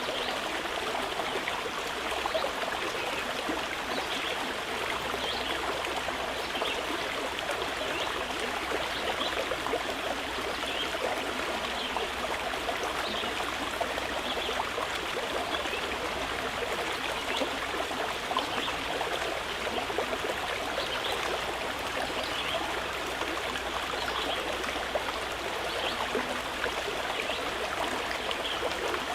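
Mountain river flowing steadily over rocks, an even rushing and babbling of water.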